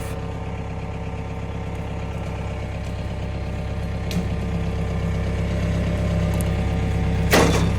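Tractor engine running steadily under load, growing slightly louder, with a short rushing noise near the end.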